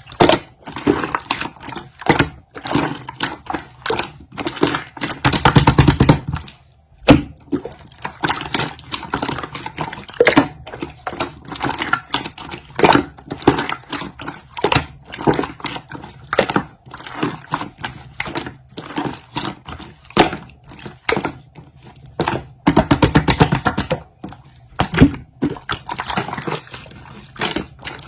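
Slime being squeezed and kneaded by hand: an irregular run of wet clicks and pops, with two longer, denser stretches of squishing.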